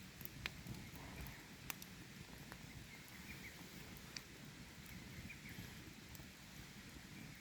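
Wood campfire crackling with scattered sharp pops, the strongest about half a second and nearly two seconds in, over a low steady rush of flowing water.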